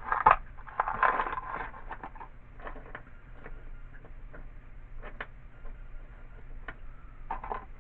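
Hand tools and small hardware being handled: a burst of clatter and rustling in the first couple of seconds, then scattered sharp clicks and taps.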